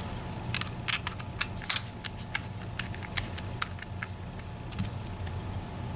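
Quick, irregular light clicks and taps of metal tools and parts on an EVVA ICS lock cylinder as it is worked at to be taken apart, thickest in the first few seconds and thinning out near the end.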